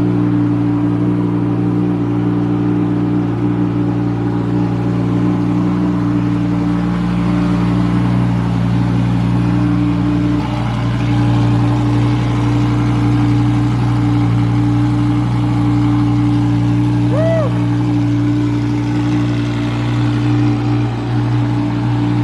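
Car engine running at a steady speed, loud and even, its note shifting slightly about ten seconds in.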